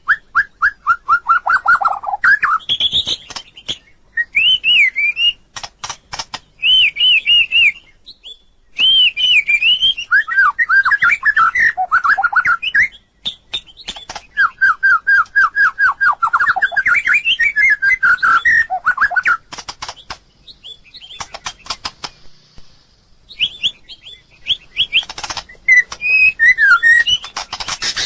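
White-rumped shama singing: phrases of rapid, repeated whistled notes, many sweeping down in pitch, mixed with sharp clicking notes, with a short pause a few seconds before the end.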